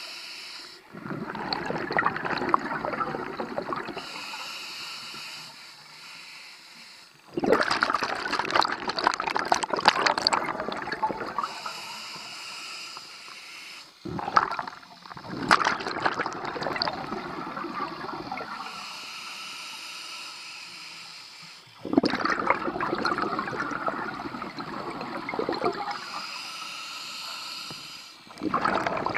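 A scuba diver breathing through a regulator underwater: a loud rush of exhaled bubbles about every seven seconds, each lasting three or four seconds, alternating with a quieter, steady hiss of the inhale through the regulator.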